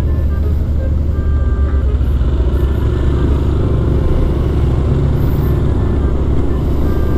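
Yamaha MX King 150's single-cylinder four-stroke engine running steadily while riding along, heard through a helmet-mounted microphone with heavy wind rumble.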